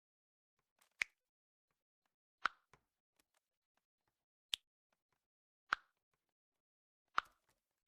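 Five sharp, short clicks or taps at irregular intervals of about one to two seconds, over a near-silent background.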